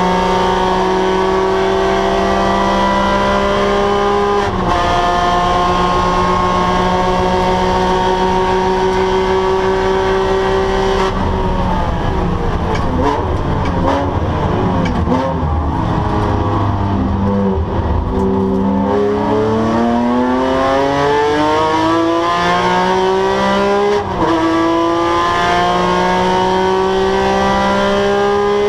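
Porsche 997 GT3's flat-six engine at high revs under hard acceleration, with an upshift about four seconds in. Near the middle it comes off the power into heavy braking with a run of blipped downshifts, then climbs steadily through the revs again and shifts up once more near the end.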